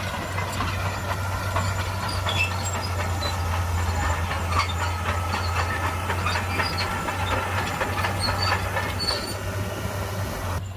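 Shantui crawler bulldozer working: its diesel engine runs steadily under many clanks and squeaks from the steel tracks.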